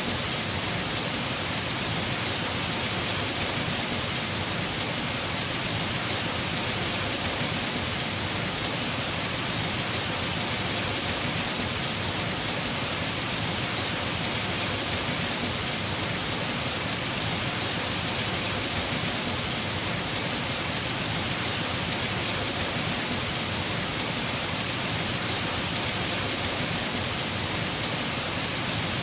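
Steady heavy rain drumming on a house roof, an even hiss of many drops with no thunder or other events.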